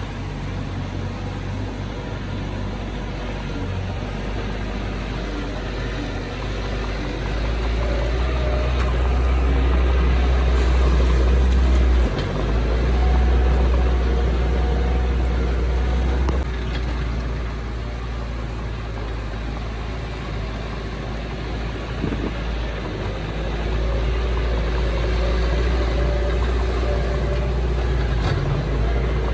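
Heavy construction machinery's diesel engine running steadily with a deep rumble. It grows louder for several seconds in the middle, drops briefly, then eases off and rises again.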